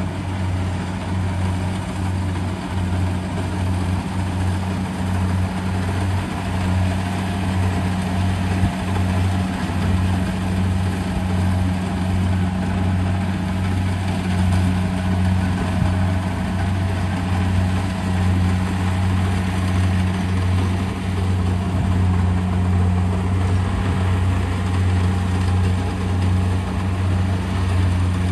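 Combine harvester's diesel engine running steadily at constant speed, with a deep even hum and the clatter of the machine's working parts over it.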